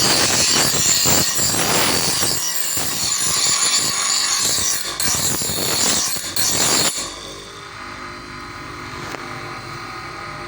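A power tool grinding or cutting metal with a loud, harsh, high-pitched noise. About two-thirds of the way through it gives way abruptly to a quieter, steady motor hum.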